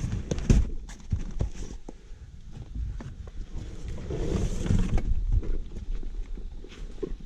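Footsteps of a person walking through woods and brush, with irregular thuds and crunches at a walking pace, and a longer rustle of brushing against vegetation about four seconds in.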